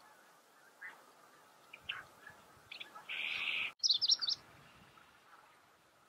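Scattered chirps and calls from several wild birds, with a harsh buzzy call a little after three seconds and a quick run of loud, high chirps around four seconds in.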